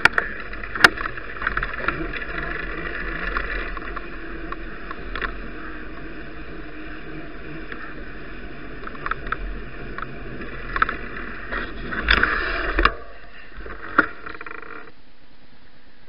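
Riding noise picked up by an action camera on a moving bicycle: a steady rush of tyre and wind noise with frequent sharp clicks and knocks from bumps in the road. A burst of louder rattling comes about twelve seconds in, and the rush drops away abruptly near the end as the bike slows.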